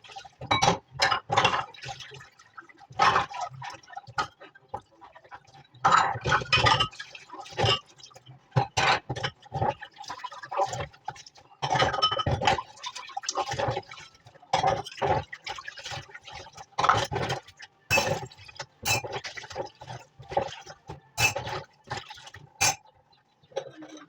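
Dishes and glassware clinking and knocking together amid running, splashing water, in irregular clusters, with a faint steady hum underneath.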